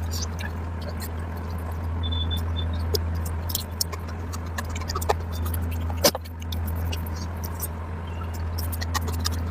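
Close-up eating sounds: wet chewing, lip smacks and mouth clicks, with a sharper snap about six seconds in, over a steady low hum.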